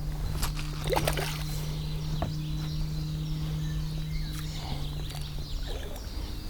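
Water splashing and sloshing as a hooked carp thrashes at the surface beside a boat, in a few quick bursts in the first couple of seconds. A steady low hum runs underneath and stops near the end.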